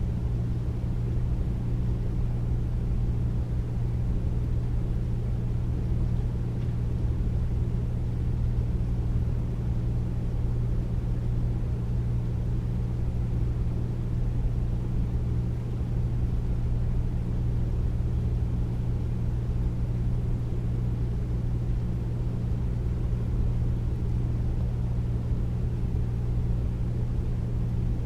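Air conditioner running steadily: a deep, even hum with a rush of air, unchanging throughout.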